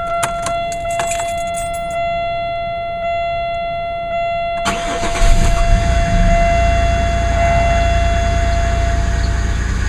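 A steady pitched tone, pulsing about twice a second, until about four and a half seconds in. Then the 1999 Chevrolet Malibu's 3100 V6 cranks on the starter and catches at once on a freezing cold start, settling into a steady idle.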